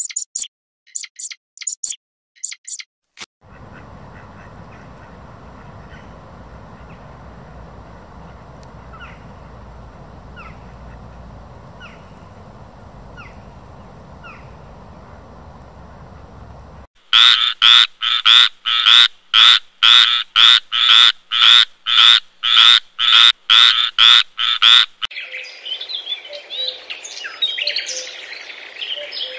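A run of short animal sounds. First come a few quick high squeaks. Next is a steady background hiss with a faint chirp about every second. Then comes the loudest part, a long run of evenly repeated calls at about two a second for some eight seconds, and after it busy bird chirping.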